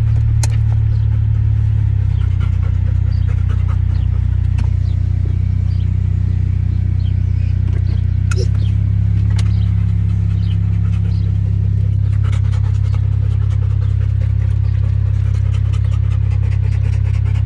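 A loud, steady low rumble with scattered faint ticks over it.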